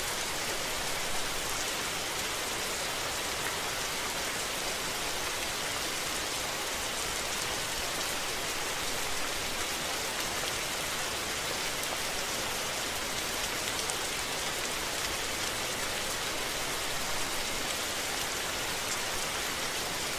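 Steady rain falling: an even hiss with faint scattered drop ticks and no thunder.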